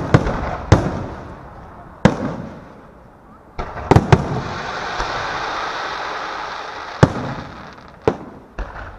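Aerial fireworks bursting overhead: a string of sharp booms, about nine in all, each trailing off in an echo. Between about four and a half and seven seconds in, a steady rushing crackle fills the gaps.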